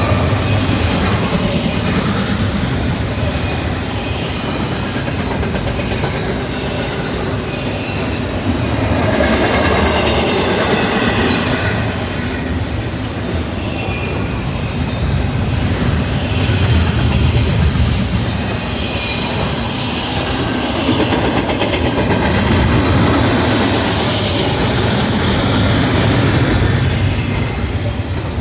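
Double-stack container freight train passing, its railcar wheels clattering steadily over the rail joints.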